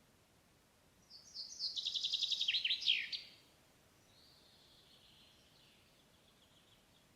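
A songbird sings one loud, fast trilled phrase lasting about two seconds that drops lower in pitch at the end. Fainter twittering from another bird follows.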